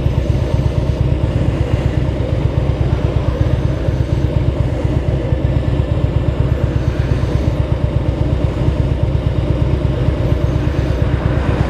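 Motorcycle engine running steadily at low revs, with a fast, even pulsing beat, while the bike is ridden slowly.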